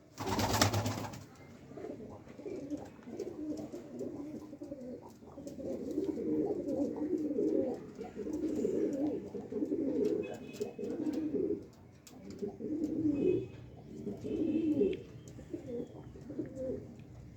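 A flock of domestic pigeons cooing, many low calls overlapping without pause. A short, loud rustling burst comes right at the start.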